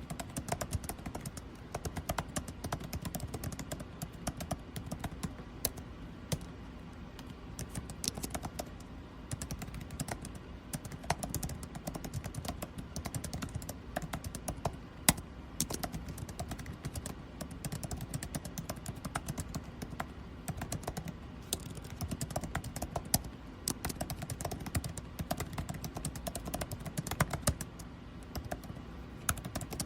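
Typing on a computer keyboard: a dense, irregular stream of keystroke clicks, with one louder key strike about halfway through. Under it runs the steady low hum of air conditioning.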